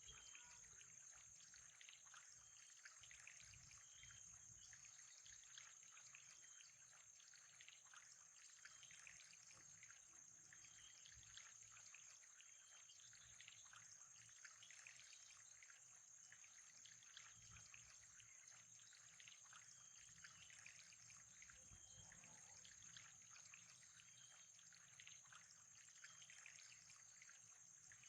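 Very faint trickling water, with a steady high-pitched whine underneath.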